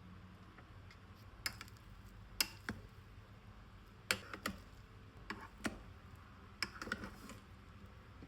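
Light clicks and clinks of kitchen items being handled, about a dozen sharp taps at irregular intervals, the loudest near the middle.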